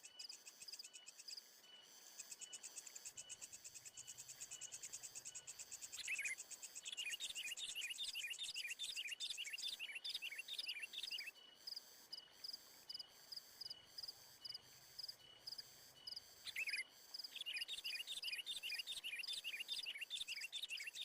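A steady, fast, high insect trill like crickets. Over it, a bird calls in two bouts of rapid repeated chirps, the first starting about six seconds in and the second near the end.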